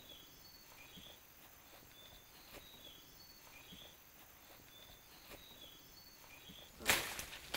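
A bird sings a short phrase of high, thin whistled notes over and over, about every two and a half seconds, over a faint steady high insect note. Near the end, branches and leaves give a few loud rustles as they are pulled.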